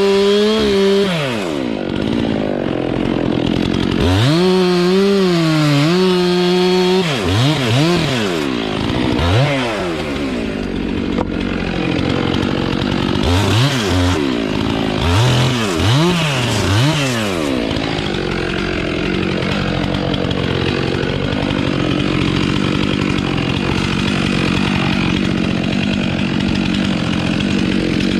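Two-stroke chainsaw revving up and down over and over, its pitch rising and falling several times in the first half. In the second half it runs more steadily.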